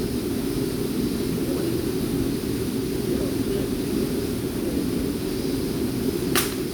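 Waterfall rushing, a steady low roar of falling water, with a sharp click near the end.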